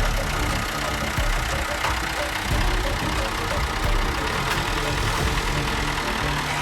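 Heavy farm machine's engine running steadily, a dense low rumble.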